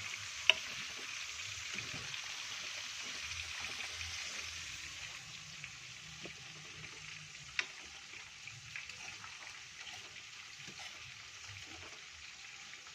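Long beans sizzling in hot oil in a pan as they are stir-fried, the sizzle slowly dying down. A few sharp clicks of the spatula against the pan, the loudest about half a second in and another around the middle.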